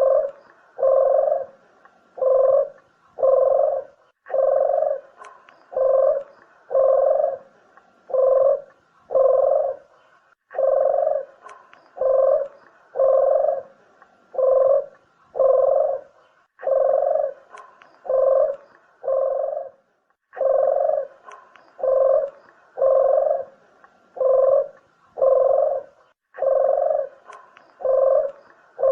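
Barbary dove (burung puter) cooing: low notes about once a second in runs of four to six, with a short pause between runs.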